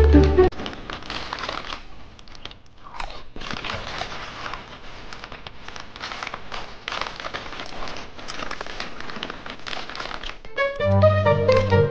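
Crunchy munching of a snack being chewed, with crinkling of a plastic snack bag, a dense irregular crackle lasting about ten seconds. Background music cuts out half a second in and comes back near the end.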